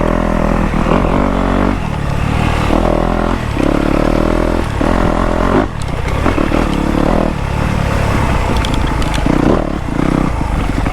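Dirt bike engine running under way on a trail, its revs rising and falling in steps as the throttle is worked.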